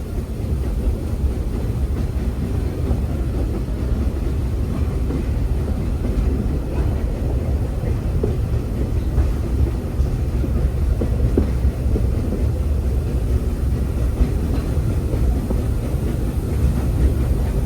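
Walt Disney World Railroad train rolling steadily along the track, heard from aboard: a continuous low rumble with a few faint clicks from the wheels on the rails.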